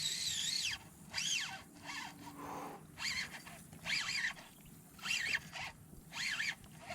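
A bird calling: a series of about six short, high-pitched calls, each rising then falling in pitch, repeated roughly once a second.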